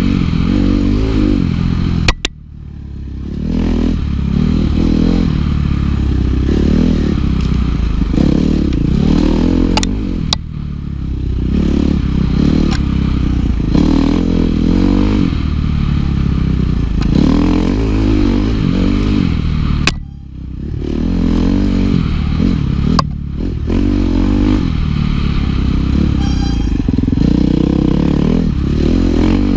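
Dirt bike engine revving hard and rising and falling over and over during riding, with sharp clicks and clatter; the engine note drops off briefly about two seconds in and again around twenty seconds in.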